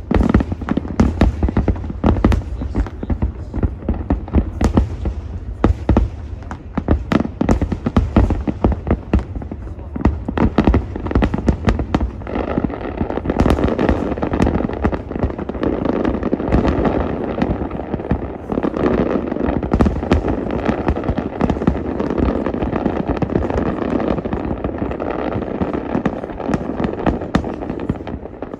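Fireworks display: a rapid run of shell bursts and bangs, thickening about halfway through into dense, continuous crackling.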